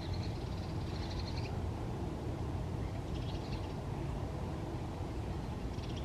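Short spells of rapid, trilled bird calls, near the start, about three seconds in and at the end, over a steady low wind rumble.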